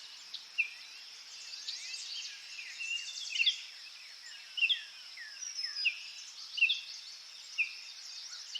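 Small songbirds chirping: short whistled notes and quick falling calls, roughly one to two a second, over a steady high hiss.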